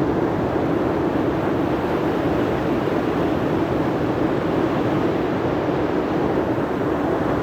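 A steady, even rushing drone with no breaks or distinct events, at the same level throughout.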